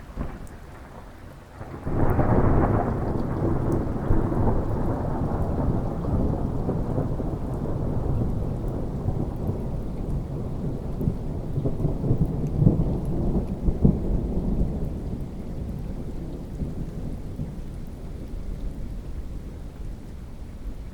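Thunderclap breaking about two seconds in, then rolling on as a long low rumble with a few crackles that slowly dies away, over steady rain.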